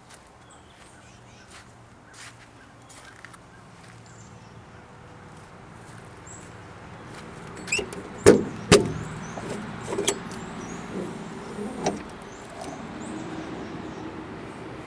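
Faint clicks, then a cluster of sharp metal clunks and knocks about halfway through, the loudest two close together, as the engine cover of a Bobcat X331 mini excavator is unlatched and swung open.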